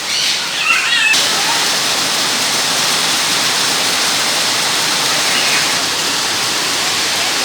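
Steady rushing of falling water, like a small waterfall or fountain, which gets louder about a second in and then holds even.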